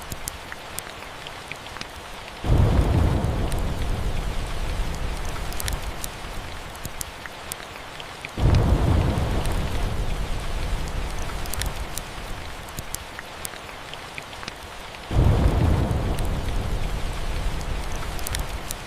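Steady rain with three rolls of thunder, each starting suddenly, deep and loud, then fading slowly over several seconds.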